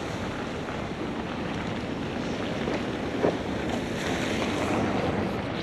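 Steady rushing noise of wind on the microphone outdoors.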